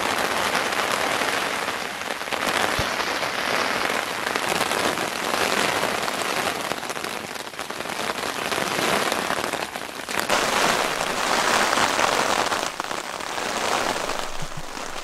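Heavy rain pattering on a nylon dome tent, heard from inside the tent. It is a dense, steady hiss of drops that swells and eases in waves.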